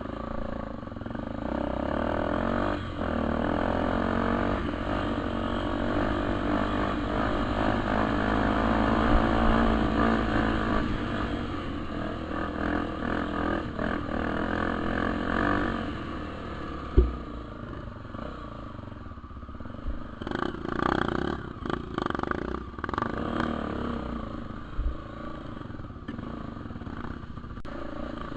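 Dirt bike engine running steadily, loudest over the first half, then easing to a lower, quieter run. About 17 seconds in there is one sharp knock, and a few seconds later comes a stretch of rattling clatter.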